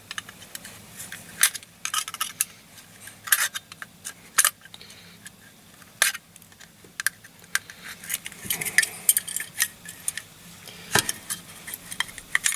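Irregular small metallic clinks and taps from hand tools working against a diecast metal toy caravan, prying its stubborn base loose after its rivets have been drilled out.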